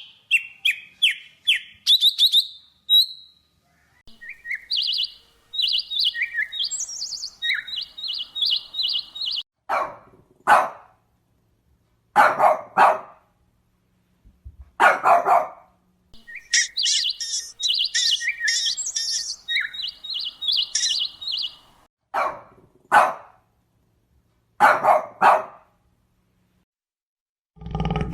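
A small bird chirping in quick runs of high notes, alternating with a dog barking in pairs of short barks. A deep roar begins right at the end.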